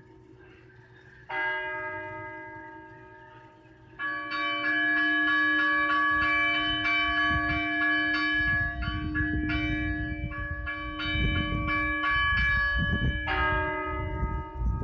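Church bells ringing: a single strike about a second in, then rapid repeated strikes from about four seconds in, with another strike near the end, each tone ringing on. A low rumbling noise sits under the middle of the ringing.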